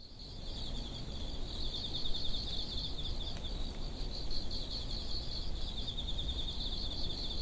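A steady, high, fast-pulsing trill like chirping insects over a low rumbling noise, building up in the first couple of seconds.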